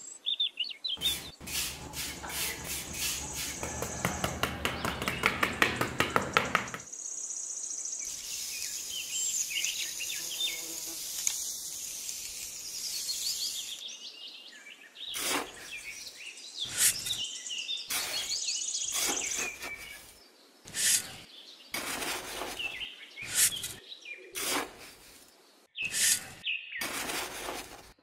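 Birds chirping and tweeting, with a small hand trowel scraping and digging into damp sand: a fast run of scrapes in the first few seconds, then single strokes about once a second in the second half.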